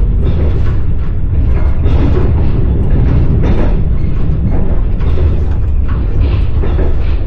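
Passenger train running on the rails, heard from inside the carriage: a steady heavy rumble with irregular knocking and rattling from the wheels and running gear.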